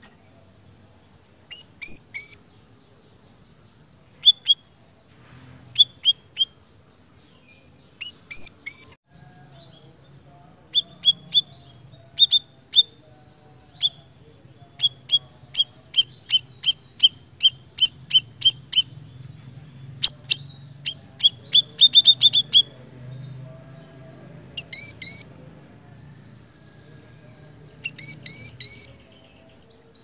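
Caged siri-siri bird singing in full voice: loud, sharp chirps, first in twos and threes, then a fast even run of about two a second through the middle, and short clusters again near the end.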